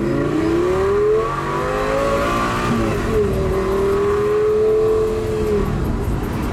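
Supercar engine accelerating hard: the revs climb, drop at a gear change about three seconds in, then hold a high steady note before fading near the end.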